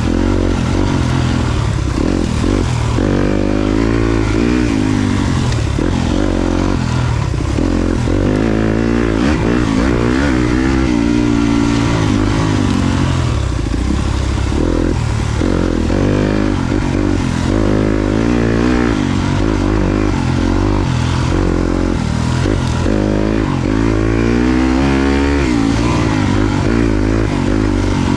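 Yamaha YZ250FX's 250cc four-stroke single-cylinder engine being ridden off-road, its pitch rising and falling over and over as the throttle is opened and closed.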